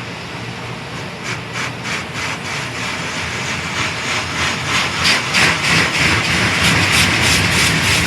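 Automatic car wash working on a car: a steady rush of water and machinery that grows louder, with rapid rhythmic slapping pulses starting about a second in.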